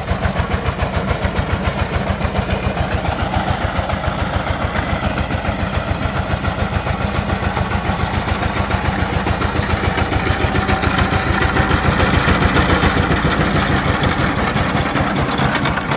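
Diesel engine running steadily with an even, pulsing beat, swelling slightly louder about two-thirds of the way through.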